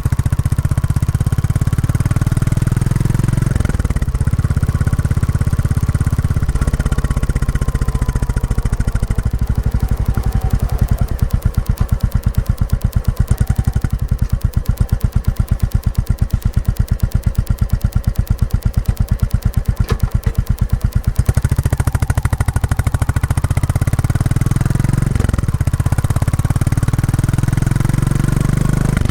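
Royal Enfield Classic 350's single-cylinder engine running through its stock exhaust while the bike is ridden on a break-in run. The exhaust beats slow to distinct separate pulses for a long stretch in the middle, and the engine speed changes a few times.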